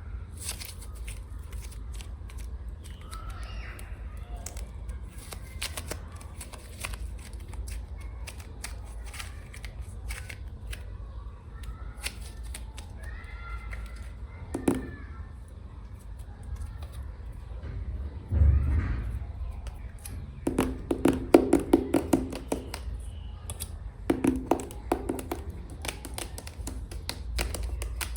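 Long fingernails tapping and clicking on hard packaging close to the microphone: scattered sharp clicks, a heavier knock about two-thirds of the way in, then two quick bursts of rapid, ringing taps near the end.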